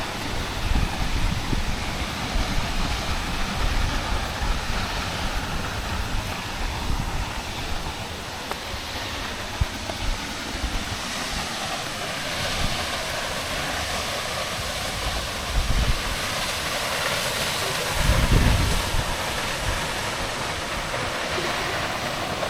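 Steady rush of a waterfall, with low rumbles of wind buffeting the microphone now and then, the strongest near the end.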